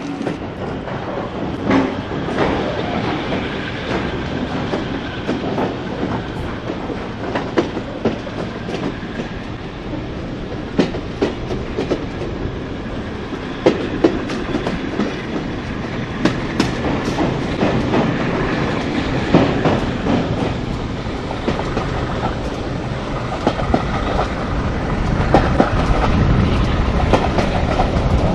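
Heritage passenger train running along the line, with a steady rumble and irregular clicks from the wheels going over rail joints. It gets louder and heavier in the last few seconds.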